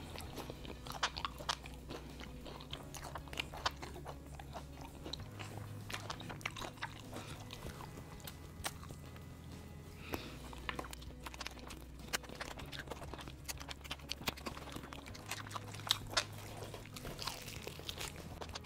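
Close-up crunching and chewing of crispy KFC fried chicken, with many sharp crunches as the coating and meat are bitten. A quiet bass line of background music plays underneath.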